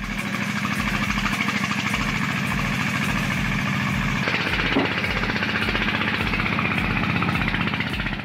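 Engine of a homemade logging truck running steadily with an even knocking beat, about three beats a second.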